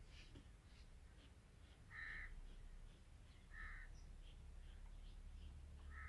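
A bird calling: short calls repeated a second or two apart, twice in the middle and again at the very end, over faint light scratching of a carving tool cutting patterns into an unfired clay pot.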